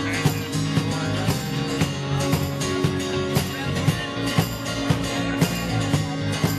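Pop-rock band playing an instrumental passage, guitar over a drum kit keeping a steady beat of about two hits a second, with no singing.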